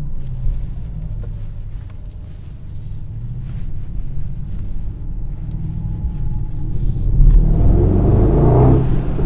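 The Mercedes-AMG GLS 63's twin-turbo V8 running while the SUV is driven. About seven seconds in, the engine and exhaust swell much louder as it accelerates.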